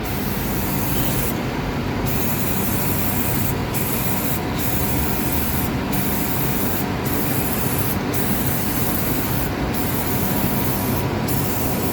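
Aerosol can of Armor All Tire Foam spraying in one long, steady hiss, with several short dips in its highest part.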